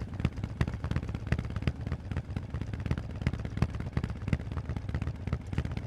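Harley-Davidson Forty-Eight's air-cooled V-twin running through aftermarket Vance & Hines exhaust pipes: a steady low rumble broken by frequent, unevenly spaced sharp exhaust pulses.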